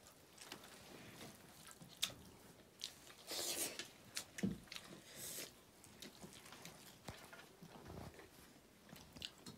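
Close-up chewing and mouth sounds of people eating meat by hand, with a few sharp clicks.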